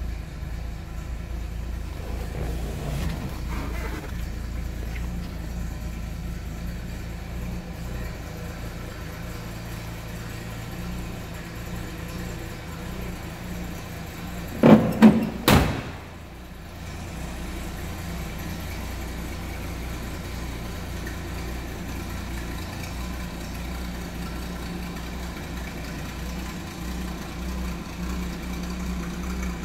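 Ford Mustang's inline-six engine idling steadily with a low hum. About halfway through, a car door is shut in a short burst of loud knocks.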